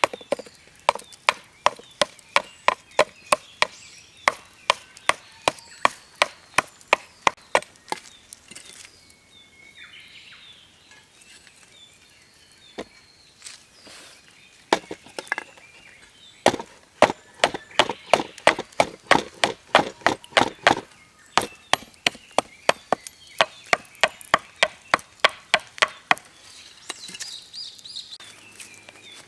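Firewood being split or chopped: sharp wooden knocks in quick succession, about three to four a second, in two long runs with a pause of several seconds in the middle.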